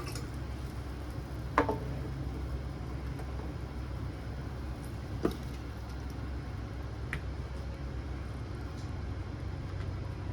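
Steady low room hum, with two short sharp knocks, about a second and a half in and about five seconds in.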